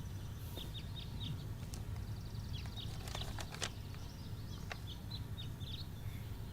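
Small birds chirping: runs of short, quick, falling chirps over a steady low hum of background ambience.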